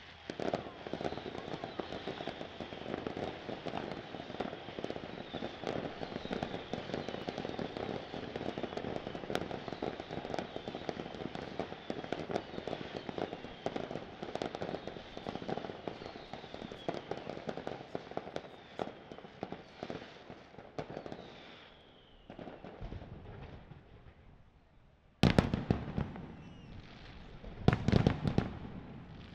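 Fireworks display: dense crackling with many small pops and repeated falling whistles for about twenty seconds. After a short lull come loud, sudden shell bursts, each trailed by a rumble, about 25 and 28 seconds in.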